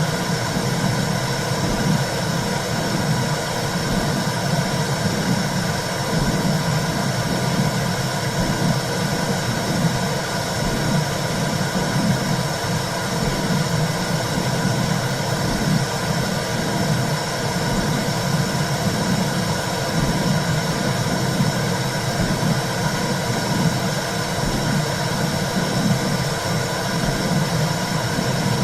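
Womb sound for soothing a baby: a steady low rushing whoosh with a regular low pulse running through it, like a heartbeat heard through fluid.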